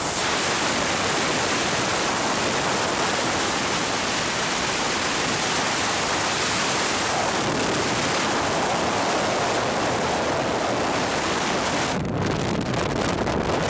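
Steady rushing noise of wind and water, with wind buffeting the microphone; the sound changes character about twelve seconds in.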